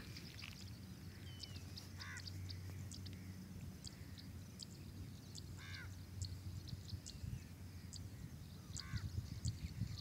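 A bird calling three times in short pitched calls, about two seconds in, near the middle and near the end, over faint high chirps and a steady low rumble.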